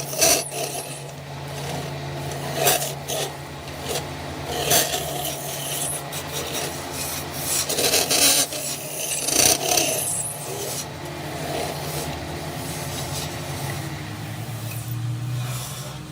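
Wood being sanded or filed by hand in irregular strokes, over a steady low hum.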